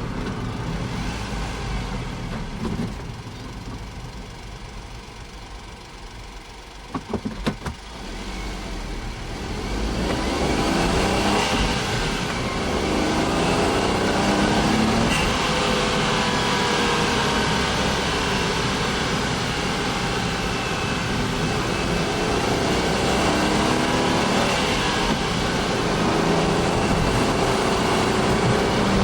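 Honda S660's small turbocharged three-cylinder engine, running low and quiet at first. A few brief clicks come about seven seconds in. From about ten seconds in the engine gets louder, its pitch rising and falling again and again as it revs.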